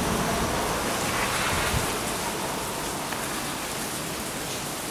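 Steady rain falling, an even hiss of drops on surfaces that slowly grows a little quieter.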